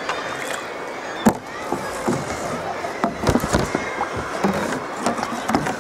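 Irregular sharp knocks and clicks over a steady rush of sea and wind, the loudest knock about a second in and a cluster a little past the middle.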